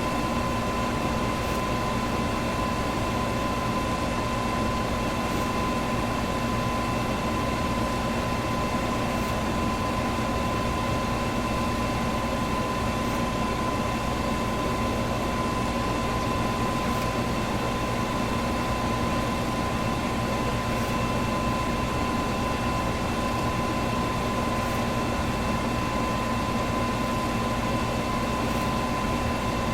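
Electric fan running steadily: an even rush of air with a constant mid-pitched hum and a fainter higher whine, and a very faint tick about every four seconds.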